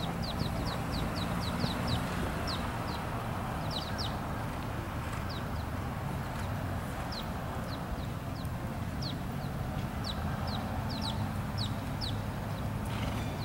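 A bird calling over and over with short, high chirps, often two or three in quick succession, over a steady low background rumble.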